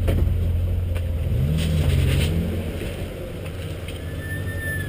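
Car engine running with a low, steady rumble, revved once about a second and a half in, the pitch rising and falling back. A faint high whistle is heard near the end.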